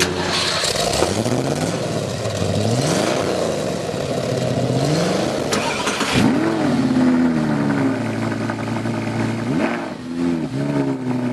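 A car engine revving: several rising pulls in revs, a stretch held steady at higher revs, then a few quick throttle blips near the end.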